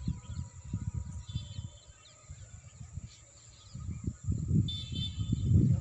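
Small birds chirping in short bursts, twice, over a low, uneven rumbling noise on the microphone that grows louder in the second half.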